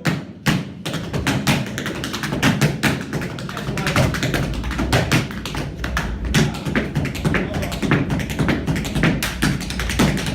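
Tap dancers' metal-tipped shoes striking the floor in fast, dense runs of taps, many strikes a second. A low steady backing sound comes in partway through.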